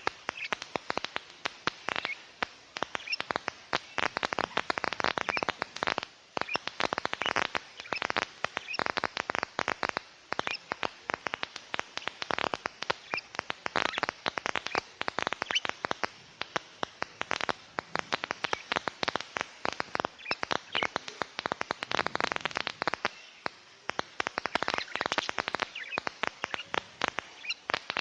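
Small birds chattering: rapid clusters of short, sharp clicks and chirps, broken by brief pauses.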